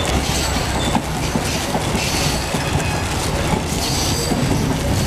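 A moving passenger train running, heard from inside the compartment: a steady rumble and rattle, with brief louder hissing surges about two and four seconds in.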